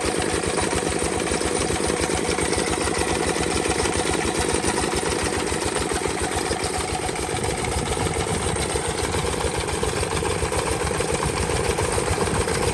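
Old S1100 single-cylinder diesel engine running steadily, with the even, rapid beat of its firing strokes.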